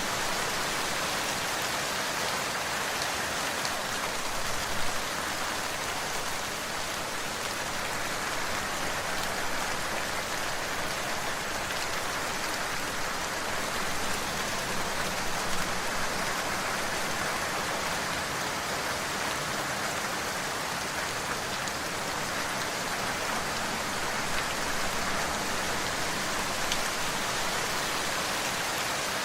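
Steady rain falling, a dense even hiss with a few louder single drops now and then.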